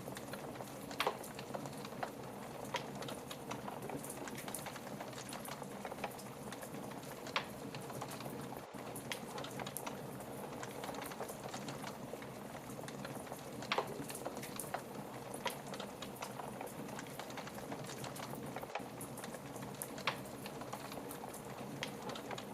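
Fire burning in a fireplace: a steady soft hiss dotted with constant small crackles, and a handful of louder pops spread a few seconds apart.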